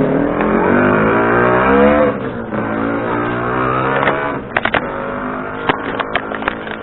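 Motor scooter engine running, its pitch climbing for about two seconds and then dropping off as the throttle is released, then running more quietly. A quick series of sharp clicks and knocks comes near the end.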